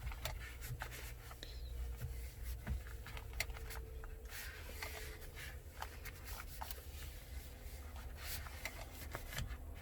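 Faint rubbing with scattered light clicks and taps: a wipe being worked over the truck's interior surfaces to lift lint.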